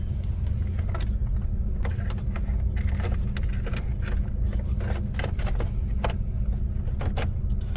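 Steady low rumble inside a car, with many short clicks and light knocks scattered through it.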